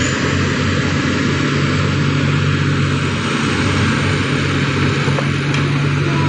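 Heavy machinery running steadily, a low even engine hum with a constant noisy layer above it, from an excavator working with a vibro hammer.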